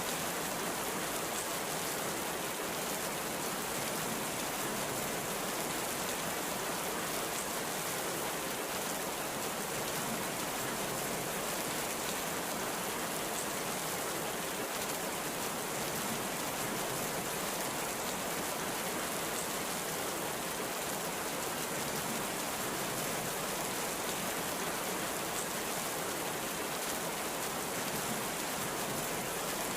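Heavy rain falling steadily: a dense, even hiss of rain with no let-up and no thunder.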